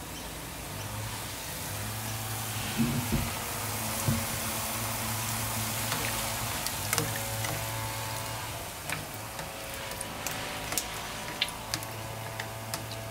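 Jalebi batter frying in hot oil in a shallow pan: a steady sizzle over a low hum, with a few knocks and scattered sharp clicks.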